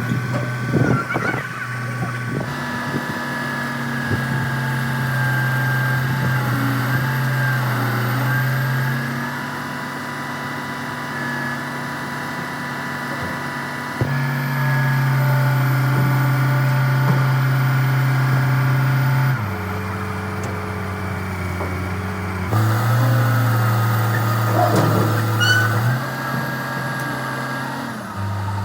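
A truck engine running steadily at idle, in several cut-together clips where the hum jumps suddenly in pitch and loudness.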